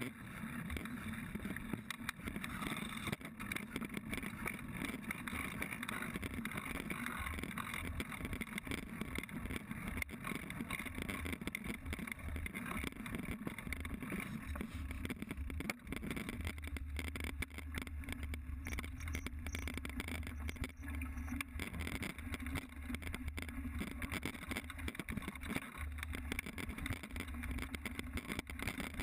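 Mountain bike ridden fast over a dirt trail, heard from a GoPro on the bike or rider: a steady rush of tyre and wind noise with constant rattles and knocks from the bike over bumps, and a deeper rumble coming in about halfway.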